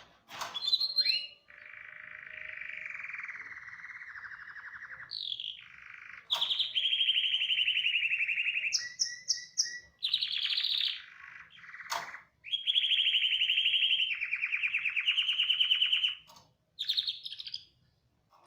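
Canary singing a long song of rapid trilled rolls, each phrase held for a second or several before it jumps to a new pitch, with a few brief high chirps partway through.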